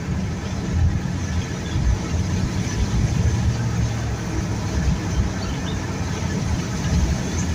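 A vehicle's engine and road rumble at a steady, even level, heavy in the low end.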